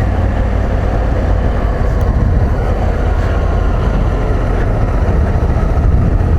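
Adventure motorcycle engine running steadily at low speed, with rolling and riding noise from the dirt track.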